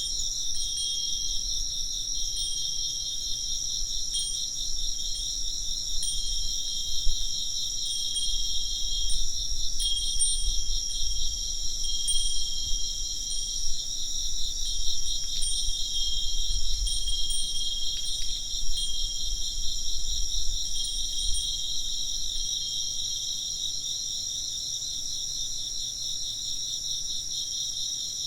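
Insects chirping steadily in a dense, pulsing chorus. A fūrin, a Japanese glass or metal wind bell, tinkles now and then through the first two-thirds and then falls silent.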